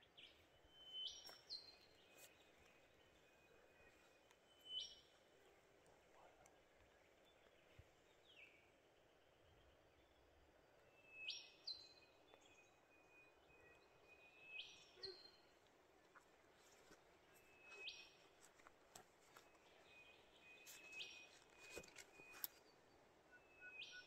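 Faint bird calls over near silence: short high chirps, most sweeping quickly upward and then dropping, repeated every few seconds.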